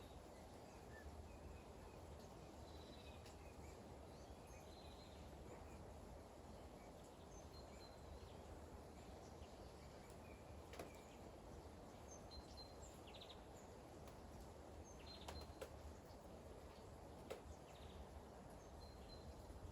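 Faint, steady light rain, with a few sharper clicks of drips and short, high bird chirps scattered through.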